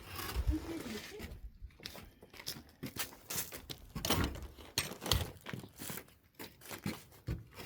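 Irregular wooden knocks, scrapes and crunching as wooden pallets are handled and shifted into place, with a few louder knocks in the middle.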